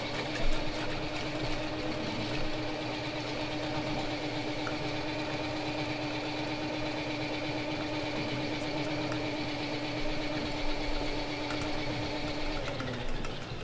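Electric drain-cleaning machine spinning a 3/8-inch cable down a floor drain: the motor comes up to speed at the start and runs at a steady pitch, with scattered light clicks. Near the end it is switched off and its pitch falls as it winds down.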